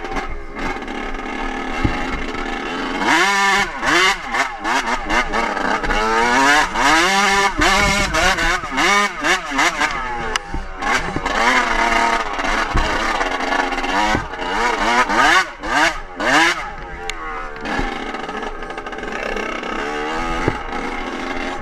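Dirt bike engine revving hard, its pitch climbing and dropping again and again as the throttle opens and closes.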